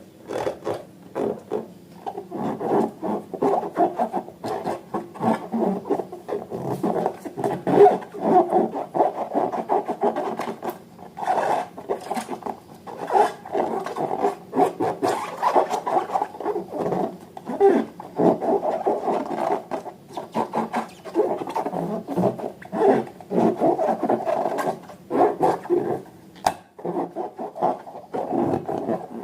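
Slime being handled and squished by hands: a continuous irregular rubbing and squelching, with many small clicks and crackles.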